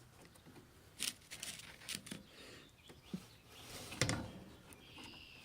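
Quiet handling noises from working two-part epoxy with a screwdriver onto a cracked plastic motorcycle side cover: a few light clicks and scrapes, the loudest about four seconds in. A faint high chirp comes near the end.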